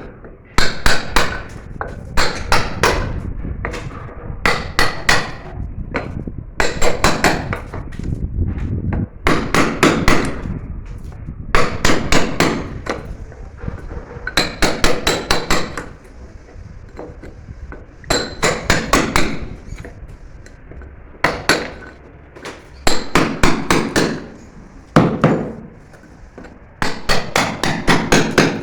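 Hand hammer striking hard in quick runs of several sharp blows, with short pauses between runs, as in hammering out material on a drain-pipe repair.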